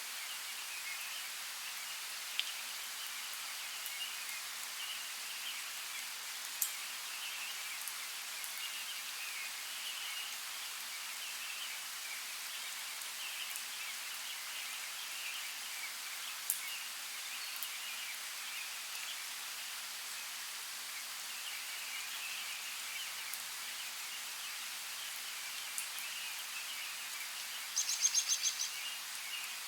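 Steady rain hiss with scattered single drop ticks and faint chirping under it. Near the end, a short run of rapid high clicks.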